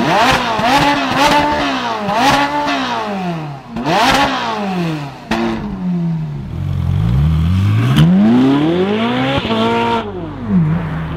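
Ferrari 458 Italia's naturally aspirated V8 being revved in a series of sharp blips, each rising quickly and dropping back. It then makes one longer, slower climb in revs that falls away near the end.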